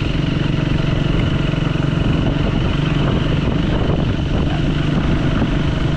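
Triumph Speed 400's single-cylinder engine running steadily under way, at an even pitch with no revving.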